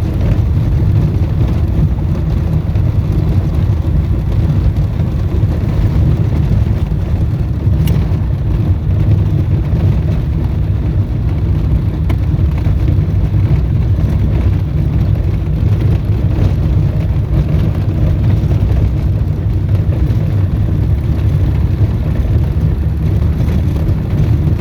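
Small plane's engine and propeller droning steadily, heard from inside the cabin, with one faint click about eight seconds in.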